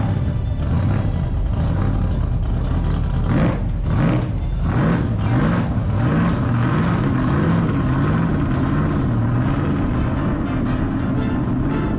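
Car engine running while cruising, its pitch rising and falling with speed, over steady road noise.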